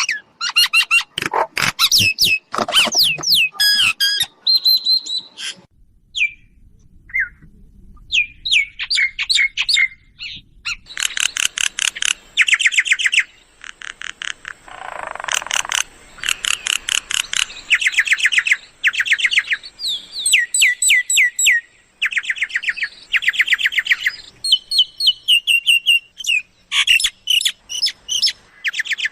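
Mynas calling: bursts of fast chattering notes and short whistles, broken by brief pauses, with a harsh squawk about halfway through.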